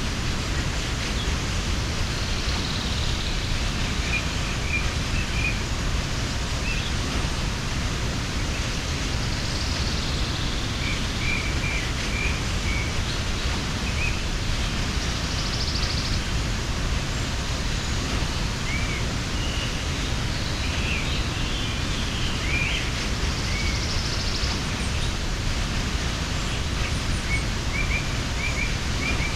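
Steady rush of a mountain waterfall, with small birds chirping now and then over it.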